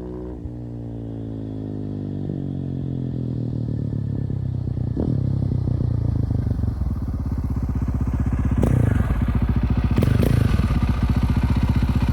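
KTM 640 LC4 single-cylinder four-stroke engine running through an Akrapovic exhaust with no dB killer. It grows louder over about eight seconds and then holds a steady, loud thump of firing pulses, with a few sharp cracks mixed in.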